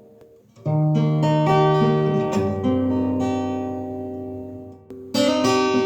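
Acoustic guitar strumming chords between sung lines. A chord starts about two-thirds of a second in and rings, fading out, and a new strum comes in near the end.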